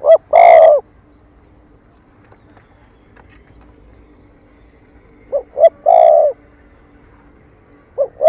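Spotted dove cooing loudly and close up. Each phrase is two short coos followed by a longer drawn-out coo. Two phrases come about five seconds apart, and the short opening coos of a third start near the end.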